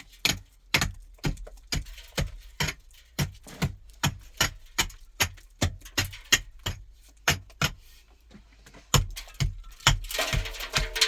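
A steady run of sharp knocks, about two to three a second, like repeated striking or hammering, with a short pause a little after the middle. Music comes in near the end.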